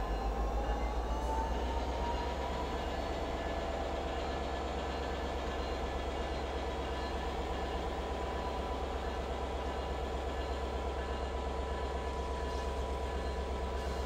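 A dinner train of passenger cars with diesel locomotives rolls slowly by. The locomotives' engines make a steady low hum with a fast pulse, and a held whine rises slightly in pitch about a second in before levelling off.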